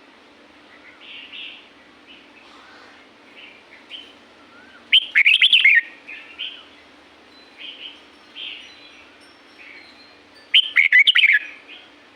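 Red-whiskered bulbul singing: two loud, quick warbled phrases about five seconds apart, with softer chirps in between.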